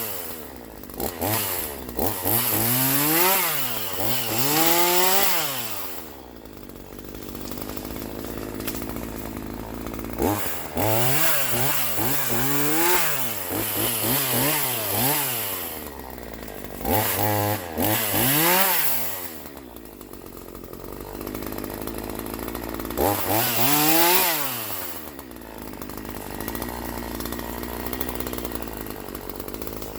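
Troy-Bilt TB4218 42cc two-stroke chainsaw revved in groups of short throttle blips, each rising and falling in pitch, dropping back to a steady idle between the groups.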